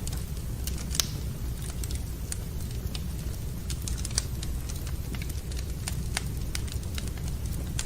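Wood fire crackling in a fireplace: irregular sharp pops and snaps over a steady low rumble, with the loudest pop about a second in.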